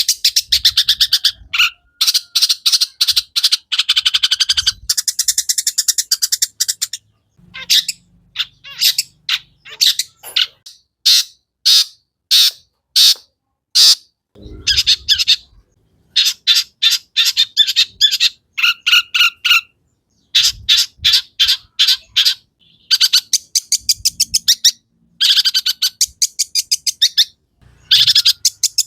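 Long-tailed shrike (cendet) singing: rapid runs of sharp, high chirping notes in bursts of one to several seconds with short pauses between them.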